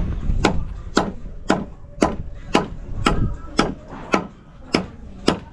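A tool striking wood in a steady rhythm, about two sharp blows a second, each with a short ring.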